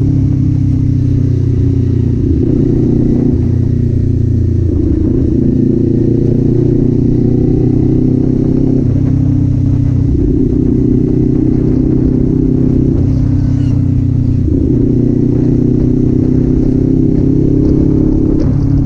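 Kawasaki Z400's parallel-twin engine and exhaust running under way, heard from the rider's seat. The engine holds steady speeds, and its pitch steps up and down several times as throttle and revs change.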